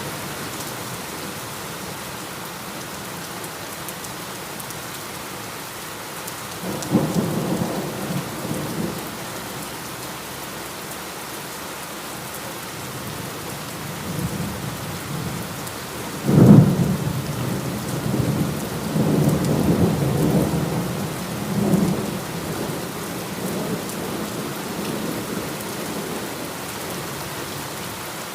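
Steady heavy rain with thunder: a low rumble about a quarter of the way in, then a sudden, louder thunderclap just past halfway that rolls on for several seconds.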